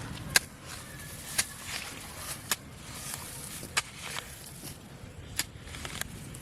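Footsteps walking across a field: six sharp steps about a second apart over a faint steady hiss.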